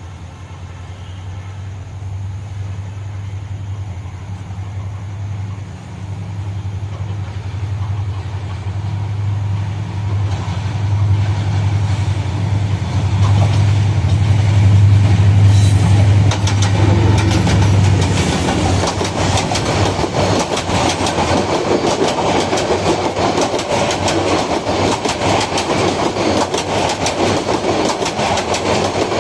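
A diesel-hauled passenger train passing close by: the locomotive's low engine drone grows steadily louder as it approaches, then about two-thirds of the way in gives way to the rapid, continuous clatter of coach wheels over the rail joints.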